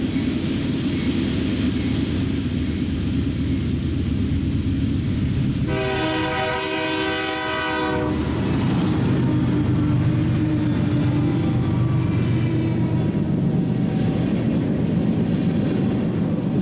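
Diesel freight locomotive approaching and passing close by. The tail of a horn blast dies away at the start. About six seconds in comes one loud horn blast lasting some two seconds, followed by the engine's rumble going past and the steady rolling noise of freight tank cars on the rails.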